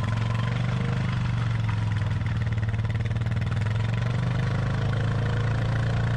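ATV engine running steadily at low revs, an even hum that holds without revving up.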